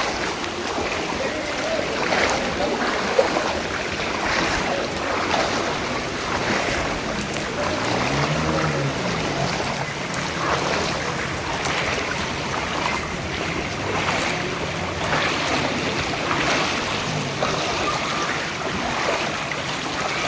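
Floodwater sloshing and splashing, with repeated irregular splashes about once a second as someone wades through deep water.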